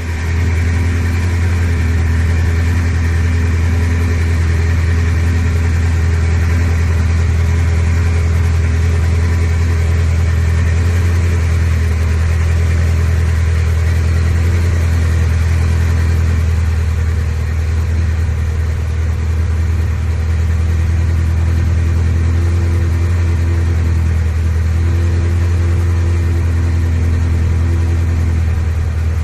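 Ferrari 360 Spider's 3.6-litre V8 idling steadily, a loud, even low hum with a faint steady whine above it, easing slightly about two-thirds through.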